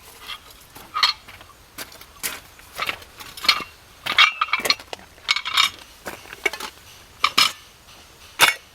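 Hard metal objects clinking and knocking together in an irregular run of about a dozen strikes, with a brief metallic ring about four seconds in.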